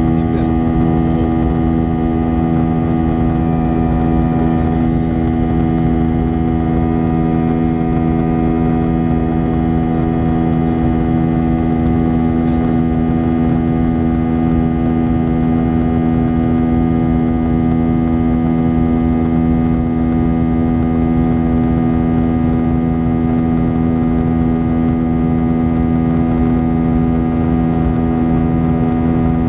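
Airbus airliner's jet engines running at steady thrust: a constant hum with several steady tones over a rumble.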